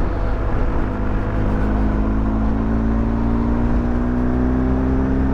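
Motorcycle engine pulling in gear, its note rising slowly as the bike gathers speed, over a steady low rumble of wind and road noise.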